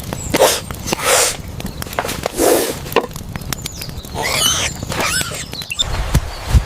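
Monkeys squealing and chattering, with high gliding squeals about four to five seconds in, amid short noisy bursts and clicking clatter.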